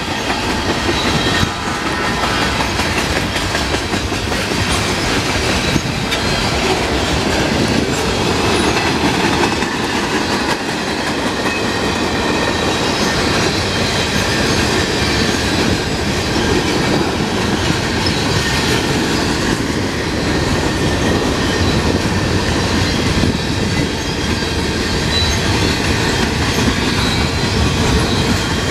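Freight train cars rolling past close by: a steady rumble and clatter of steel wheels over the rail joints.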